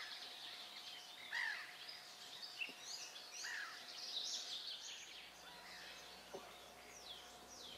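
Small birds singing and chirping, a run of short chirps and sliding whistles that is busiest in the first half and thins out towards the end, over a faint outdoor hiss.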